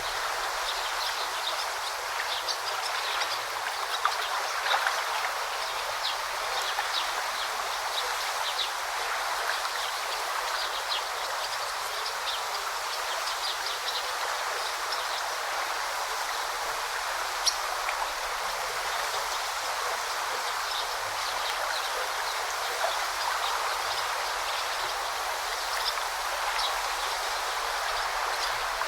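A babbling forest stream flowing steadily, with many short high-pitched sounds scattered through it.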